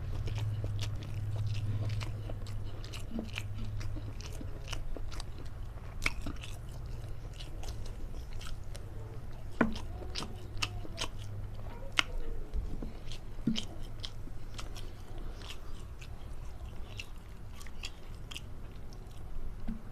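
A person chewing and biting mouthfuls of long beans cooked in spicy shrimp-paste sambal close to the microphone, with many sharp wet clicks and smacks at irregular intervals. A steady low hum runs underneath.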